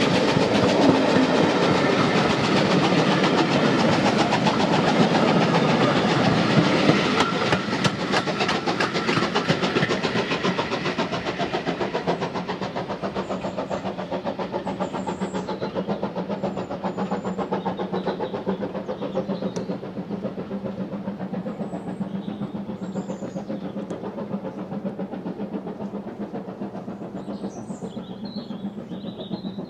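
Passenger coaches of a steam-hauled heritage train rolling past close by, their wheels clattering on the rails, then fading away as the train draws off into the distance.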